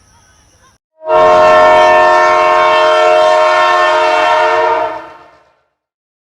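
A loud horn sounding one long, steady chord of several tones. It starts abruptly about a second in, holds for about four seconds, then fades out.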